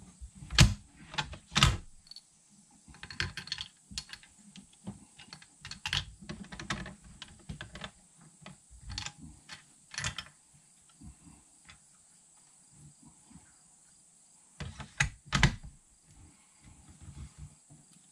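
Irregular sharp clicks and knocks of small hard objects being handled, with louder knocks about half a second and a second and a half in and a close pair near the end.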